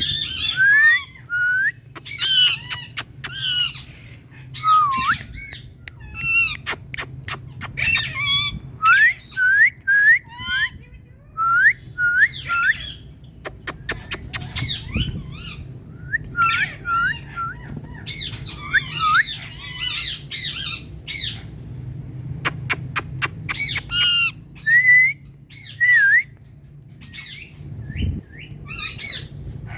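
Pet Indian parrot calling: a rapid run of short rising whistled chirps mixed with harsh squawks and sharp clicky bursts, over a steady low hum.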